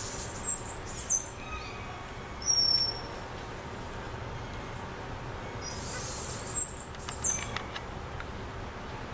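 Small birds chirping with high, thin calls: a cluster of calls in the first second and a half, a short whistle at about two and a half seconds, then another cluster from about six to seven and a half seconds.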